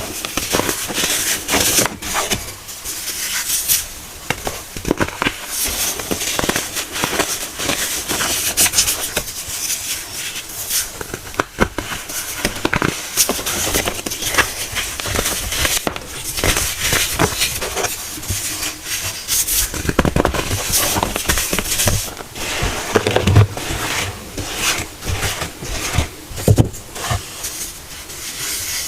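Pressed baking soda cones being crushed, a continuous dense crunching and crackling full of small sharp snaps.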